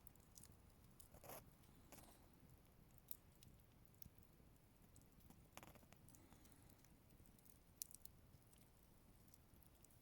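Faint crackling of a wood bonfire: scattered small pops and snaps, with a slightly louder crackle about a second in and another just past the middle.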